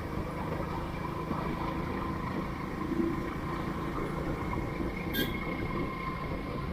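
Motorcycle engine running steadily under way, with wind rushing over the microphone. A short tick about five seconds in.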